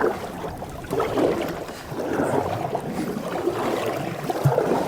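Canoe being paddled: water splashing and swishing against the paddle and hull, swelling about once a second with the strokes.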